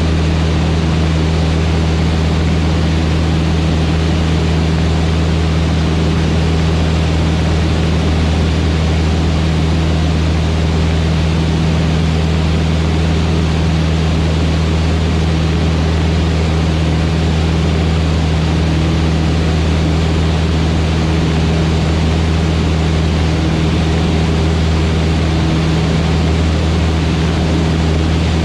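Van's RV-8's piston engine and propeller droning steadily in flight, a constant low hum under even rushing noise.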